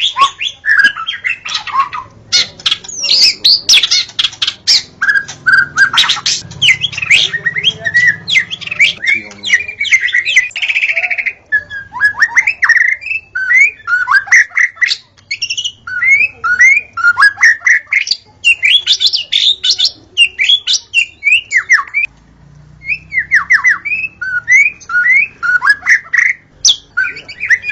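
White-rumped shama singing loudly and without let-up: a fast, varied song of sharp clicking chatter and rapid whistled notes that swoop up and down, with a short break about 22 seconds in.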